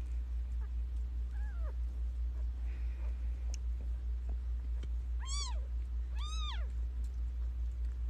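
Premature newborn kittens mewing: a faint falling mew about a second and a half in, then two louder, high-pitched mews a second apart near the middle, each rising then falling in pitch. A steady low hum runs underneath.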